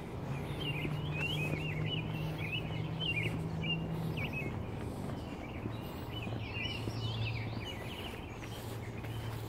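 Songbirds singing in quick chirping, warbled phrases through most of it, over a steady low hum.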